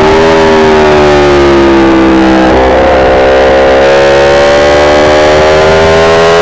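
Aprilia RSV4's V4 engine running at high revs while the bike is ridden through a corner. The engine note sags gently, steps up about two and a half seconds in, then rises steadily as the throttle is opened.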